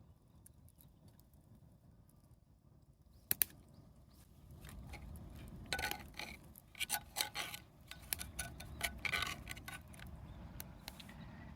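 Small hard objects being handled: a sharp double click about three seconds in, then several seconds of irregular light clicking and rattling.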